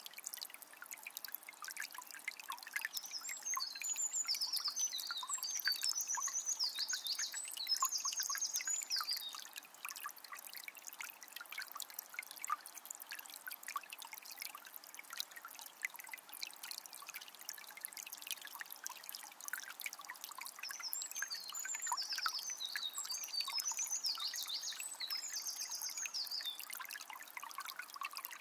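Forest river trickling and babbling over stones, with a songbird singing two rapid, high phrases of several seconds each, the first about three seconds in and the second about twenty seconds in.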